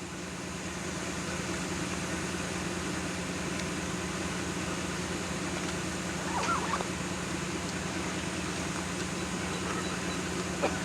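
A locomotive standing at rest: a steady, even hum under a constant hiss. A brief chirp-like call comes about six and a half seconds in.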